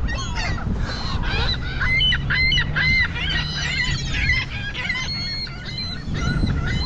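A flock of gulls calling, many short arched cries overlapping one another, over a low background rumble.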